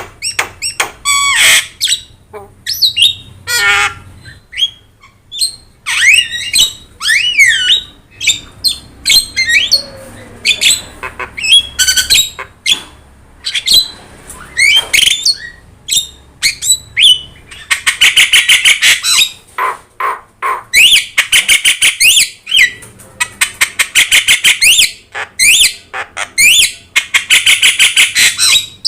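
Javan myna in full song: a run of harsh squawks, whistles and gliding notes, then, from about two-thirds of the way in, repeated fast rattling chatters of about a second each with short pauses between.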